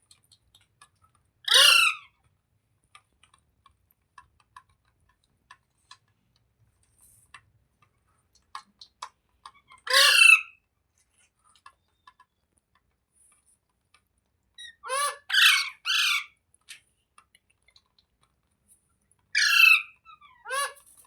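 Indian ringneck parrot (rose-ringed parakeet) giving loud, harsh squawks that fall in pitch. There is one call at a time, then a quick run of three, then a last pair near the end, with faint clicks in the pauses.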